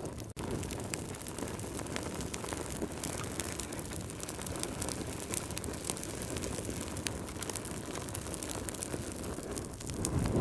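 Fire crackling: a steady low rumble of burning flames with frequent small sharp pops and snaps. There is a brief dropout just after the start, and the rumble swells near the end.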